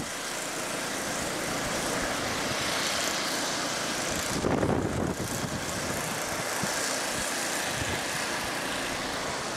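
Wind blowing across the microphone: a steady rushing noise with a louder gust about halfway through.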